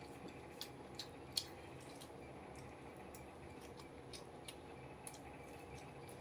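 Close-up eating sounds: wet, irregular mouth clicks and smacks while chewing, the sharpest about a second and a half in, over a steady low hum.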